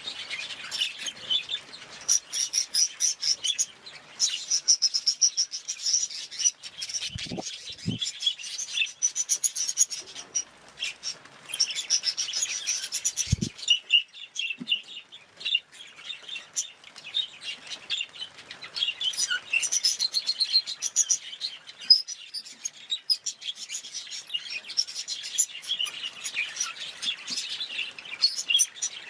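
Budgerigars chirping and chattering in dense, rapid notes without pause, with two or three brief low knocks partway through.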